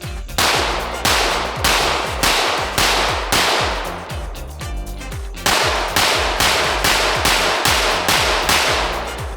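Ported 9mm Glock 17 with a Lone Wolf Alphawolf LR01C slide fired in two strings of about six and seven evenly paced shots, roughly 0.6 s apart, with a pause of about a second between them. The gun is cycling without malfunctions. Background music plays underneath.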